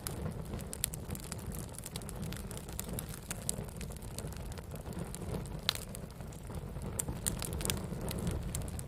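Wood fire burning: irregular sharp crackles and pops over a steady low rush of flame.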